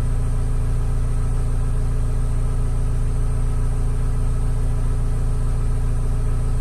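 Grove GMK 4100 mobile crane's diesel engine running at a steady, even speed, a constant low drone with no revving or change.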